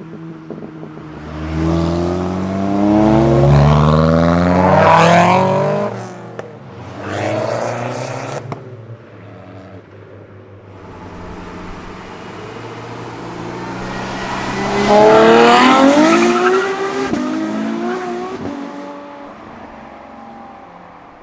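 Performance cars accelerating hard past, engines revving up with rising pitch. One car builds over the first several seconds, a short rev follows, and a second car is loudest about fifteen seconds in, then fades away.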